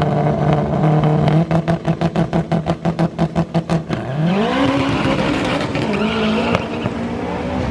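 Drag race car engine held on the line, stuttering rapidly at a rev limiter, then launching, its pitch rising steadily as it accelerates down the strip.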